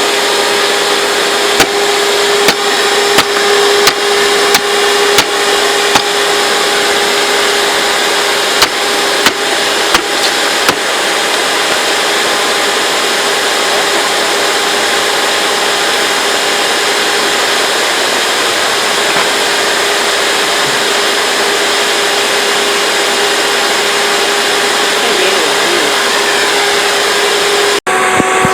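Hoover Dimension Supreme upright vacuum cleaner's motor running with a steady hum and whine. About a dozen sharp knocks come over the first ten seconds or so, and the sound cuts out for an instant near the end.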